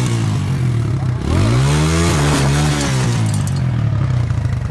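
Dirt bike engine revving: its pitch rises and falls back about a second in, then it runs at a steady speed.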